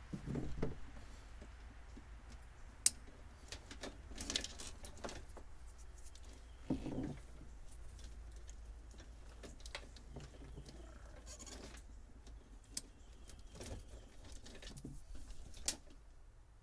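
Hands working on a boat's old wiring: scattered sharp clicks, light knocks and rustling, with two short louder low sounds just after the start and about seven seconds in.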